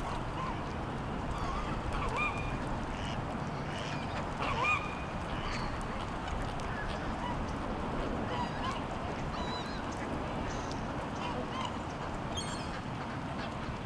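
Waterfowl calling on a pond: scattered short honks and quacks, the loudest about four and a half seconds in. Small birds chirp high above them over a steady background noise.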